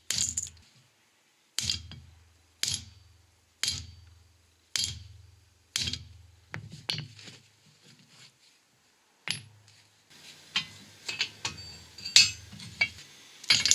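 Sledgehammer blows ringing on steel, driving a stuck wheel bearing out of its hub on a hydraulic press: the 6-ton press alone cannot shift it, so the hammer breaks it free. About six heavy strikes a second apart, a few lighter taps, then a quicker run of blows near the end.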